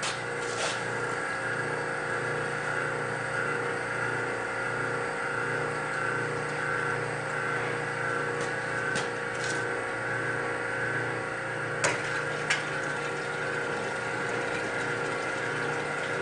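The motor and drain pump of an old Kenmore wringer washing machine run steadily, pumping the used wash water out of the tub. Two sharp clicks come about twelve seconds in.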